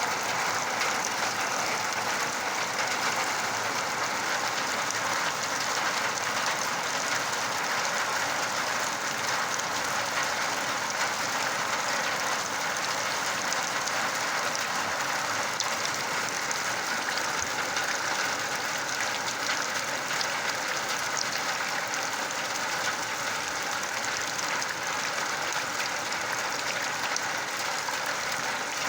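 Rain falling steadily: an even hiss that holds level throughout.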